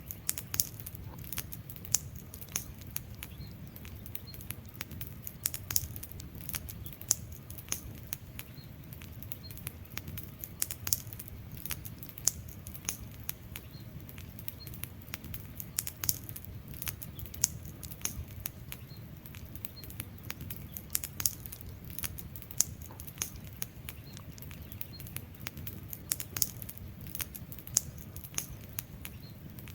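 Burning logs crackling: irregular sharp pops and snaps, several a second with some louder ones, over a low steady rush of the flames.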